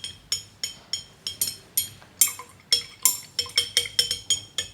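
A stirring utensil clinking against the side of a bottle as hydrogen peroxide and food colouring are mixed. The clinks come rapidly and irregularly, about four or five a second, each ringing briefly at the same pitch.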